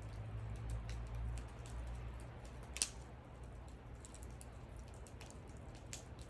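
Wood fire crackling: scattered small snaps and pops, with one louder pop about three seconds in, over a low rumble that is stronger in the first few seconds.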